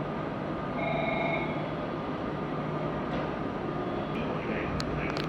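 A train standing at a station platform, humming steadily with its equipment running while it waits to depart. A few sharp clicks come near the end.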